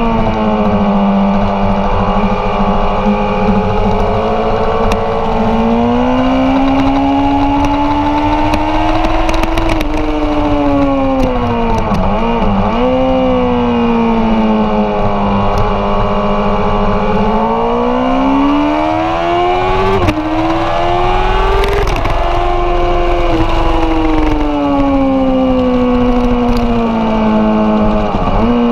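Honda CBR1000RR Fireblade's inline-four engine running hard at racing speed, heard onboard. Its pitch climbs and falls over several seconds at a time, broken by a few abrupt drops and quick dips in revs.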